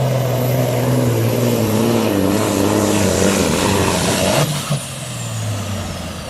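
Supersport pulling truck's diesel engine running hard under full load while pulling the sled. About four seconds in the engine drops off, and a high whine falls in pitch as it winds down.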